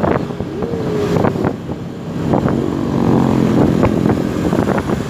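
Motor vehicle engines running in road traffic, a steady rumble with scattered knocks and clicks.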